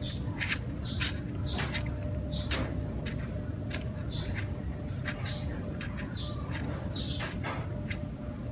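Scattered sharp metal clicks and taps of a wrench working a scooter's oil drain plug, about one or two a second at irregular spacing, over a steady low background rumble, with short high chirps now and then.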